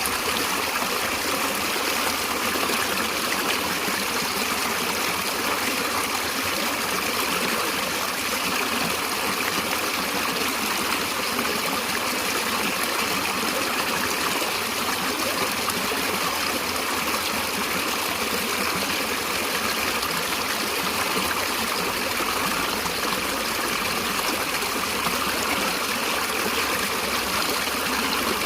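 Stream water flowing and trickling steadily, with no breaks or single events.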